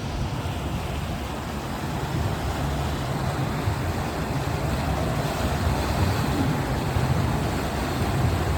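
Boat motor running steadily under way, a low rumble mixed with wind and water noise.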